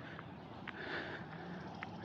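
Faint breathing of a person walking, close to the microphone, with two light ticks.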